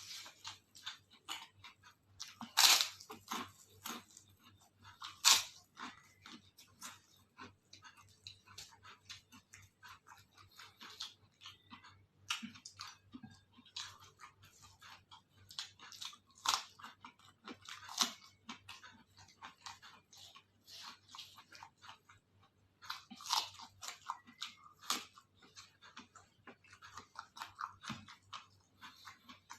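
Close-up chewing and biting of crisp food, with irregular crackling crunches and several louder bites.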